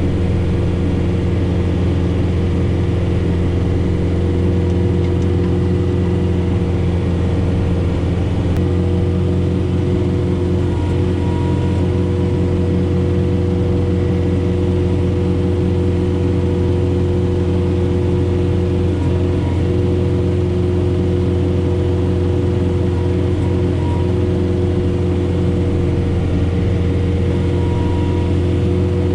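John Deere 4066R tractor's diesel engine running steadily under load in the cab, driving a Frontier SB1174 snowblower through the PTO, with a steady hum and whir at near-constant pitch.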